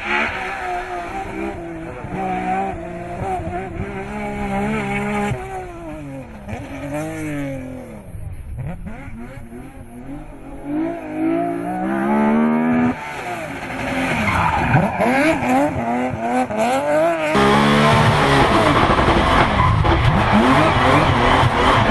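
BMW M3 race car engine revving hard up and down through the gears as it climbs a hill-climb course, with rising and falling pitch and a few abrupt jumps in the sound. Tyres squeal in places.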